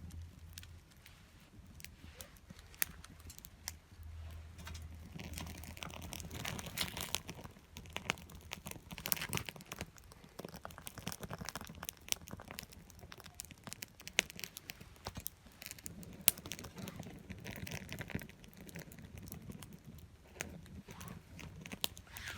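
Small wood fire crackling, with irregular sharp pops and snaps throughout.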